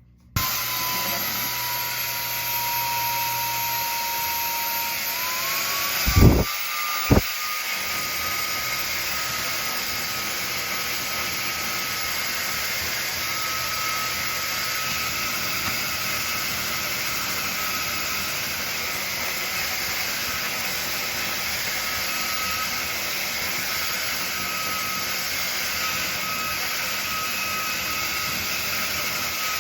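FMZ Beauty brushless high-speed hair dryer switched on about half a second in and running steadily: a rush of blown air with a thin high whine that rises a little in pitch around five seconds in. Two brief thumps come at about six and seven seconds.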